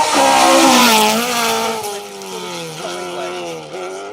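Rally car engine at high revs passing close by: a loud rushing hiss as it goes past, then the engine note drops and wavers as the sound fades away.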